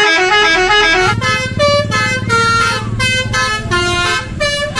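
Bus telolet horn, a multi-tone musical horn, playing a quick tune: a stepping run of notes, then a string of short chord toots, with a low hum underneath from about a second in.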